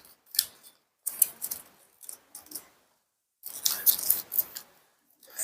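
A sheet of origami paper being folded and creased by hand: irregular crisp rustles and crackles in several short bursts, the longest a little past the middle.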